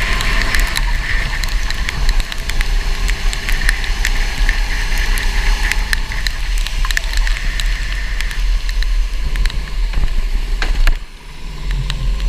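Go-kart running on a wet track: a steady, loud engine-and-spray rumble full of sharp crackles, which dips suddenly for a moment about eleven seconds in.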